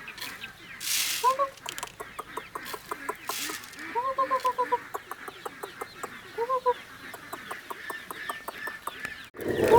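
Chickens clucking: a few short calls, with a quick run of repeated clucks about four seconds in, over faint ticking and two brief noisy rustles.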